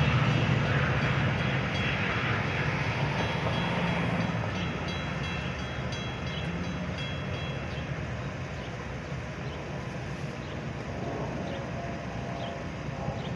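Metra bilevel commuter train running past and away as its last car clears the crossing. Its low rumble fades steadily over the first several seconds.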